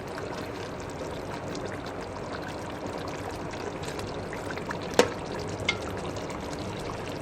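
Chicken, tomatoes and oil sizzling steadily in a pan while being stirred, with a sharp knock about five seconds in.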